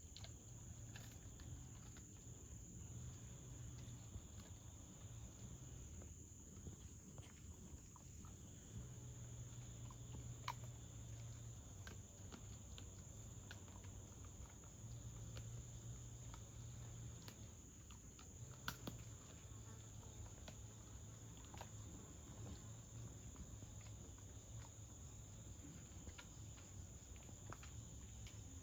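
Faint steady high-pitched insect drone over a low hum, with a few soft scattered clicks.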